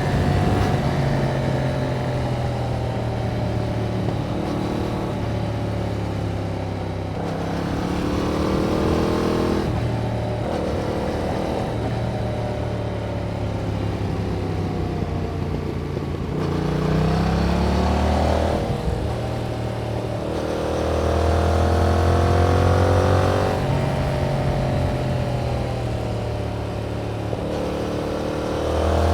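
2021 Yamaha MT-07's parallel-twin engine through its stock exhaust, heard from the rider's seat, accelerating and easing off through the gears as it rides; the pitch climbs and drops several times, with steadier cruising stretches in between.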